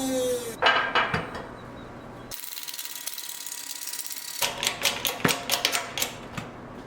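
A few mechanical clicks, then about two seconds of steady hiss, then a quick run of sharp mechanical clicks and knocks, about four or five a second.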